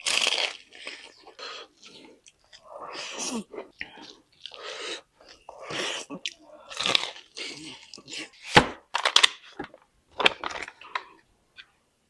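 Close-up eating sounds of crispy fried chicken: uneven chewing with crunchy bites, the sharpest and loudest crunches coming in the second half.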